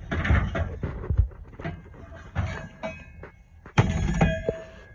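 Steel concrete-pump line fittings (reducers and clamps) knocking and clanking as they are handled, with one loud metallic clang a little under four seconds in that rings briefly. A steady low rumble runs underneath.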